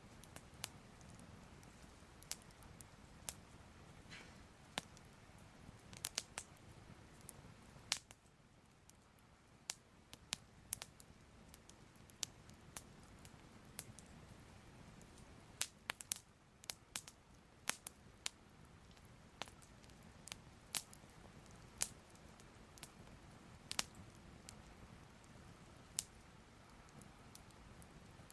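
Soft crackling of a fire: irregular sharp snaps and pops, one or two a second, over a faint low hiss.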